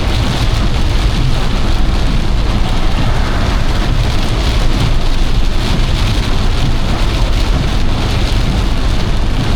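Torrential rain drumming steadily on a car's roof and windscreen, heard from inside the car while driving through a thunderstorm's core.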